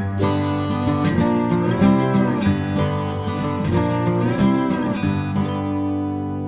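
Acoustic guitar music, strummed and picked chords, ending about five seconds in on a last chord that rings on and slowly fades.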